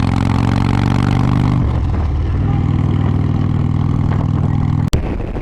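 Harley-Davidson Road Glide's V-twin engine running under way, a steady low thrum whose pitch pattern shifts about a second and a half in. A sharp click near the end.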